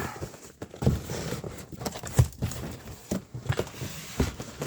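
Irregular knocks and clunks of parts and packaging being handled and set down, the loudest about two seconds in.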